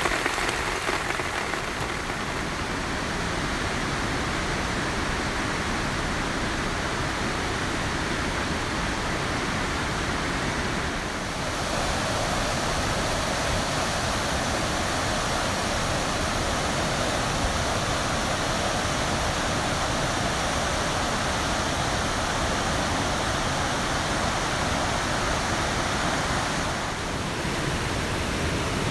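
Heavy downpour: a steady rushing wash of rain, its tone brightening slightly about eleven seconds in.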